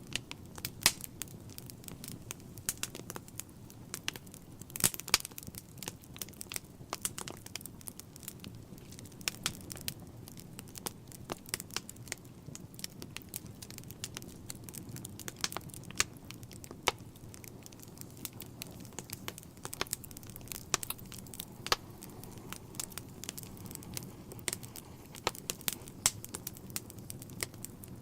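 Wood fire crackling in a fireplace: irregular sharp pops and snaps over a steady low noise of the burning fire.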